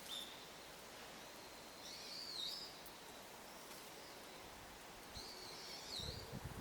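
A small songbird calling: a short high note at the start, then two brief high warbled phrases about three seconds apart, over faint outdoor background noise. A low rumble comes in near the end.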